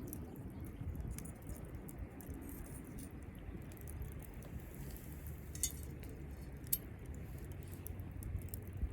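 Wood campfire crackling, scattered sharp pops and ticks with two louder pops a little past the middle, over a low steady rumble.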